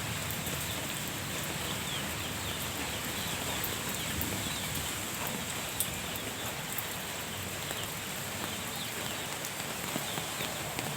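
Steady rain falling on a garden, with many small drop taps and faint short chirps.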